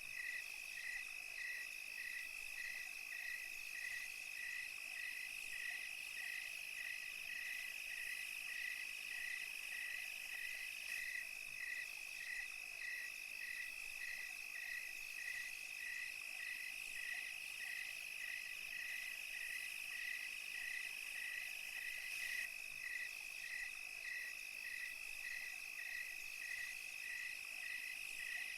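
Night chorus of crickets and other insects: a steady high trill, with a chirp repeating evenly about twice a second over it.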